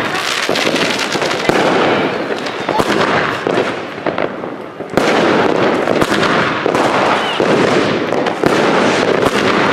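New Year's Eve fireworks and firecrackers going off: sharp bangs about once a second over a dense, continuous crackle and hiss of further explosions.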